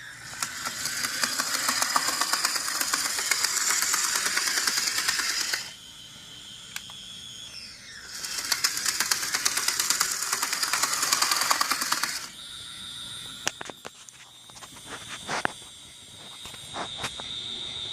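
HO scale model locomotive running with a rapid, loud clattering from its rear truck, a knocking fault in the rear truck, in two runs of about five and four seconds. After that comes a steady high-pitched whine with a few scattered clicks.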